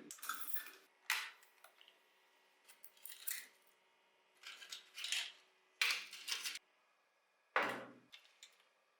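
Small metal and plastic parts of a diecast model car being handled and taken apart by hand, in about six short bouts of clicking, rattling and scraping separated by quiet gaps.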